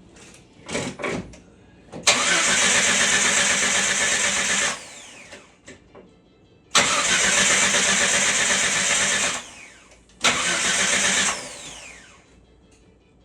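Jeep Wrangler TJ's starter cranking the engine over in three bursts, two of about two and a half seconds and a short one of about a second. Each burst cuts off abruptly, with a falling whine as the starter spins down, and the engine never fires: it has fuel but no spark. The cranking cuts out as the automatic's shifter is moved out of neutral, showing the neutral safety switch is working.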